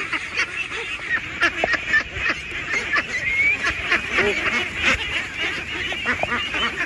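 A large flock of domestic ducks quacking continuously, many overlapping calls forming a dense, steady chatter with a few louder calls standing out.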